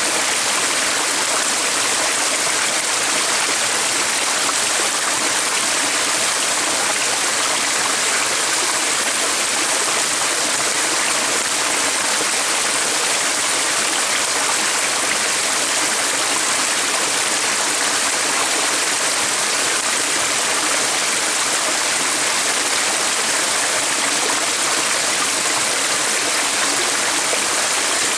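Stream water running steadily, an even rushing with no breaks or changes.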